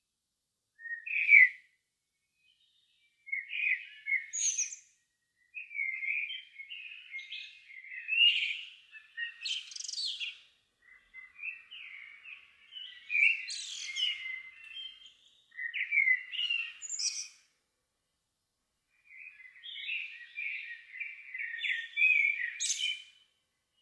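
Songbird singing at dusk in separate phrases, each a warbling run that ends in a brief high, squeaky flourish, with short pauses between phrases.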